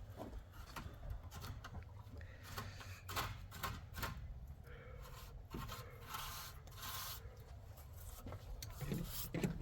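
Belongings being handled and shifted about: scattered rubbing, scraping and light knocks, over a low steady rumble.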